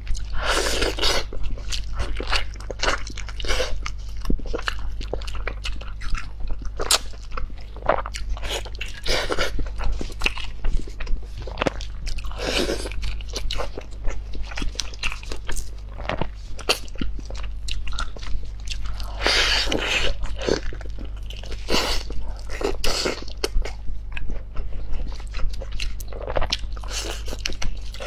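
Close-miked eating: a person biting and chewing tender, tendon-rich red-braised oxtail, with many quick wet mouth clicks and smacks, over a steady low hum.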